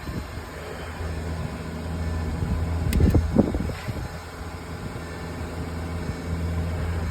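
A car engine idling steadily, as a donor car runs with jumper cables attached to charge a flat battery. A sharp click about three seconds in.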